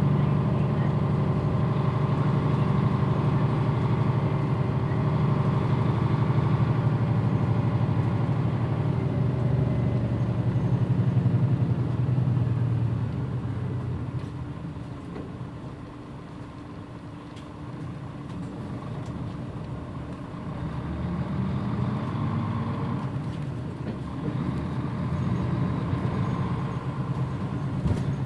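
Mitsubishi Fuso Aero Star city bus (PJ-MP35JM) heard from inside while on the move, its diesel engine running under load. About halfway through the engine eases off and the sound drops for a few seconds, then builds up again as the bus pulls away.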